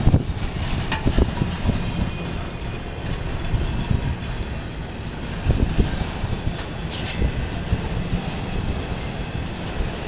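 CSX intermodal freight train's cars rolling past: a steady low rumble with irregular clacks of wheels over rail joints, and a brief high squeal about seven seconds in.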